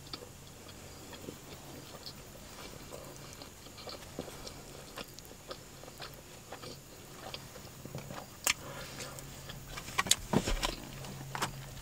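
Close-up mouth sounds of a person chewing a mouthful of bacon burger: soft, wet chewing with small scattered clicks and smacks, a few sharper ones near the end.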